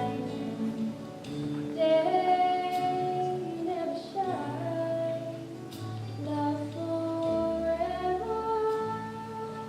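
Girls' voices singing a song with instrumental accompaniment, held notes moving in pitch over a steady low bass line.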